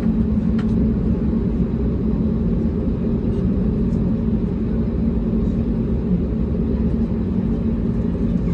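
Airbus A320neo cabin noise: a steady, deep engine drone with airflow rush, heard from a passenger seat, and a faint click less than a second in.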